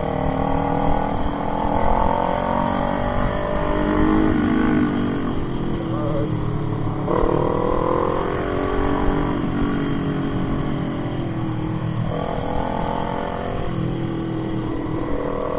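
Motorcycle engine pulling through the gears while riding. Its pitch rises and then drops at each shift, several times, over a steady low rush of wind.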